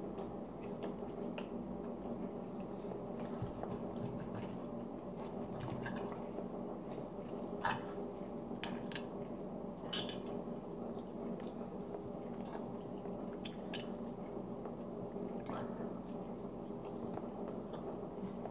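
A person chewing and biting soft French toast, with a fork and knife clicking and scraping on a plate a few times, the sharpest clinks about eight and ten seconds in, over a steady background hum.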